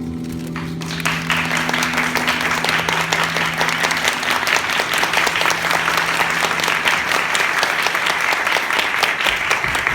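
Theatre audience applauding, the clapping starting about a second in as a held musical chord fades away over the next few seconds.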